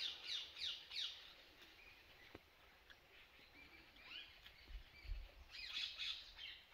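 Wild birds chirping and calling. A run of quick falling chirps fades out in the first second, scattered calls follow, and a cluster of calls comes near the end.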